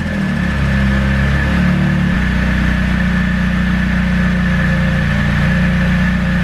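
Nissan SR20DET turbocharged inline-four idling steadily with fresh spark plugs; the idle note shifts and settles about two seconds in.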